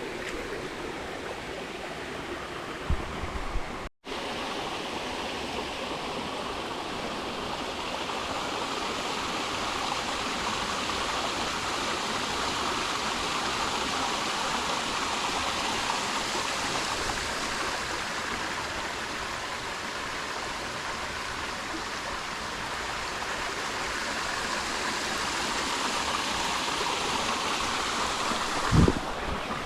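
Creek water rushing steadily over rocks, an even, continuous wash. It cuts out for an instant about four seconds in, with a few low thumps just before that and again near the end.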